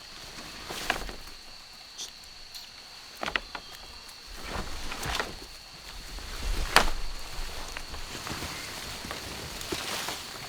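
Irregular snaps and crackles of twigs and dry leaves with rustling, the loudest snap about two-thirds of the way through, over a steady high-pitched insect drone.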